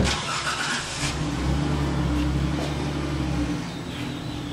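Car engine starting, then running at a steady low-pitched idle.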